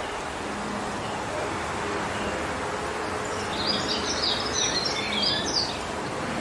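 Steady wind blowing through forest trees, with a bird singing a quick run of high chirping notes for about two seconds past the middle.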